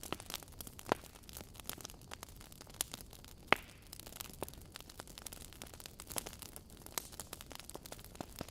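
Wood fire crackling in a fireplace: burning logs giving irregular small pops and snaps over a soft low rumble, with two louder snaps at about one second and three and a half seconds in.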